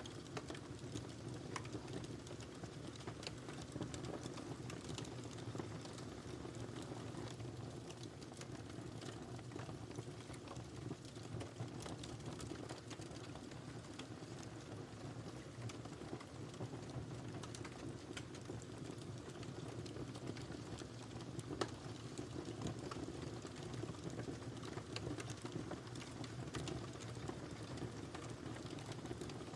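Firewood burning in a fireplace: a steady low rumble of flames under many small, irregular crackles and pops, with one louder pop about two-thirds of the way through.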